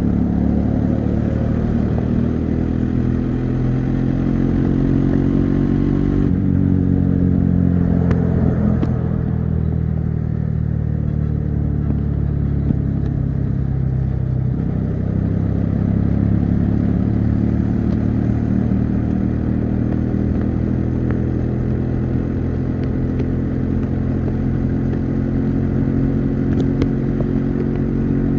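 Bajaj Dominar 400's single-cylinder engine and exhaust running at highway speed, heard from the rider's seat. The engine note drops and climbs again twice, around six and fourteen seconds in.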